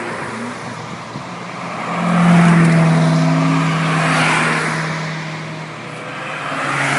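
Chevrolet Corvette ZR1's V8 accelerating as it pulls out and drives past. The engine note swells about two seconds in, is loudest for the next couple of seconds, then fades, and another car's engine rises near the end.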